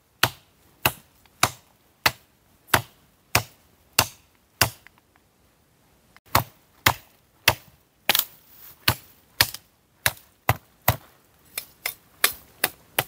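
Dry, very hard dead wood being chopped by hand for firewood. Sharp blows land about once every 0.6 seconds, pause for about a second and a half near the middle, then come back quicker and more irregular.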